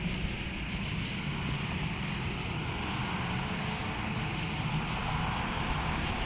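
Crickets chirping in a fast, even pulse, several times a second, over a steady low rumble.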